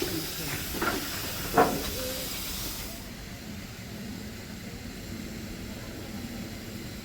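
Steam locomotive letting off a steady hiss of steam, with a couple of short sharp sounds in the first two seconds. The hiss stops about three seconds in, leaving a low steady rumble.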